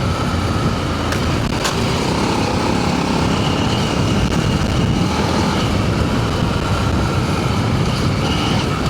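Adventure motorcycle engine running at riding speed on a dirt trail, its pitch rising and falling a little, mixed with wind and tyre noise; two sharp ticks about a second in.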